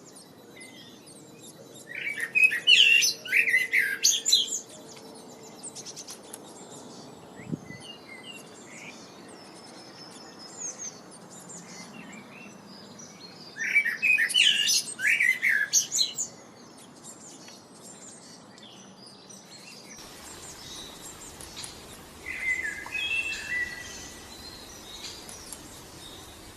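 Songbirds singing: three loud bursts of rapid, high chirping phrases, with fainter scattered chirps between them. The background hiss changes about 20 seconds in, as at a cut to another recording.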